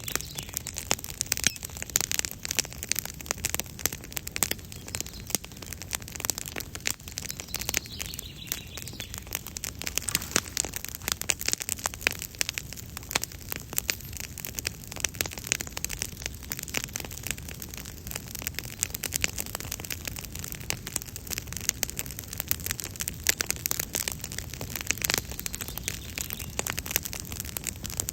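Campfire crackling: a steady run of dense, irregular pops and snaps from burning wood.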